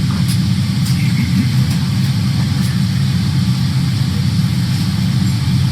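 Steady cabin noise inside a Boeing 777-300ER airliner: a constant low rumble with a hiss of air over it.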